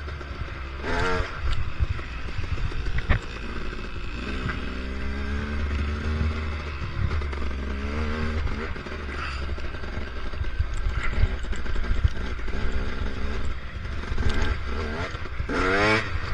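Off-road motorcycle engine running under load on a rocky trail, revving up and dropping back several times, with scattered knocks and clatter.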